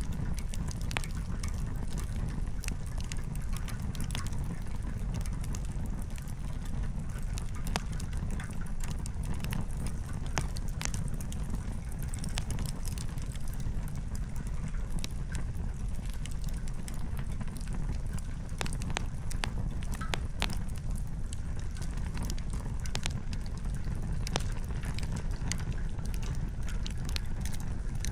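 Wood campfire crackling: irregular sharp pops and snaps from burning firewood over a steady low rumble.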